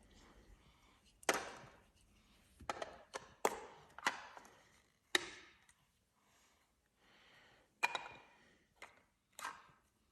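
Plastic Lego Duplo bricks clacking and knocking together as they are handled, in irregular single knocks with a pause of about two seconds in the middle.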